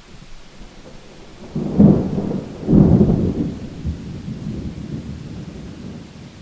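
Thunder over steady rain: two sharp cracks, about a second and a half in and again just under three seconds in, rolling into a rumble that dies away.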